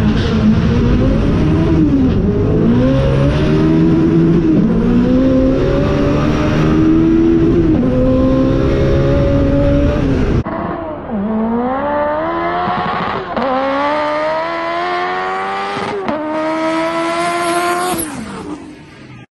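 Car engine at full throttle in a drag race, pulling up through the gears. Its pitch climbs and drops back at each upshift, several times over, with a faint high whine rising alongside, heard from inside the cabin. About ten seconds in the sound cuts to another take of an engine pulling hard through three more upshifts, which is cut off and fades near the end.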